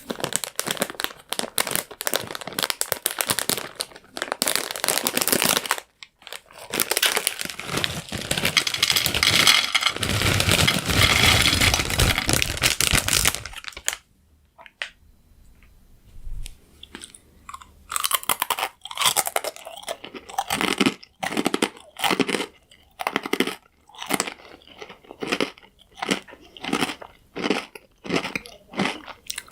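Crunchy croutons being bitten and chewed close to the microphone. Dense crackling crunches lead into a long stretch of loud, continuous crunching; after a brief lull comes steady rhythmic chewing, about one and a half crunches a second.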